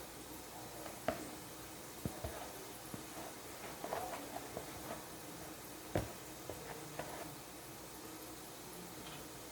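A few scattered light knocks and clicks of things being handled in a kitchen, the sharpest about a second in and about six seconds in, over a faint steady hum.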